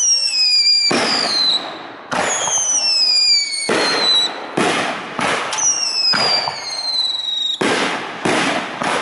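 Fireworks show: aerial shells bursting in about eight loud bangs, overlapping with high whistles that fall in pitch for about a second each.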